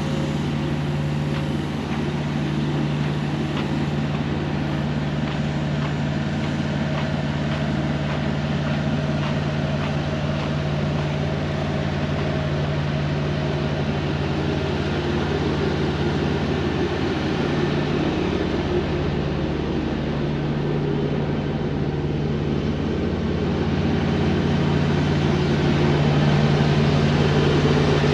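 Semi truck's diesel engine running at low speed, a steady hum that grows a little louder near the end.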